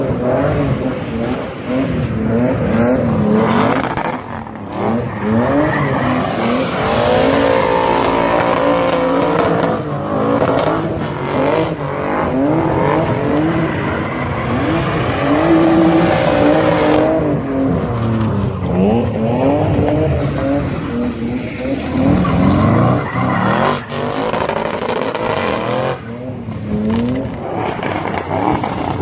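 Audi performance car engine and exhaust accelerating hard. Its pitch climbs and drops back again and again as it shifts through the gears.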